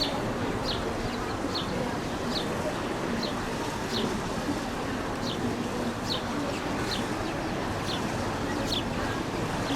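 A small bird chirping over and over, short high falling chirps about once or twice a second, over a steady low background rumble.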